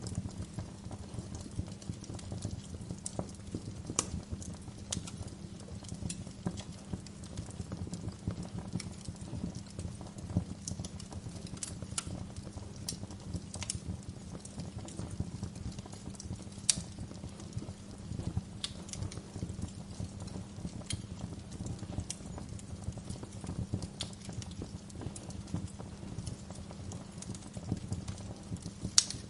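Wood fire in a fireplace crackling: a steady low rumble of burning with frequent irregular sharp pops and snaps, a few louder than the rest.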